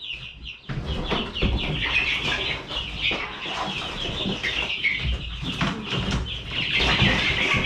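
A brood of four-week-old chicks peeping in a dense stream of short, high cheeps, starting about a second in and growing louder near the end, with scattered knocks from the chicks being handled.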